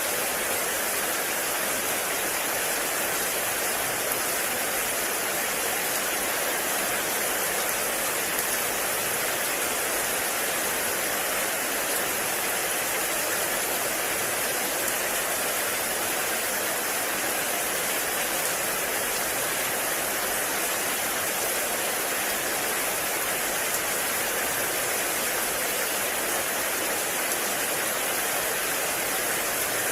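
Heavy rain falling steadily in a forest: an even, unbroken hiss.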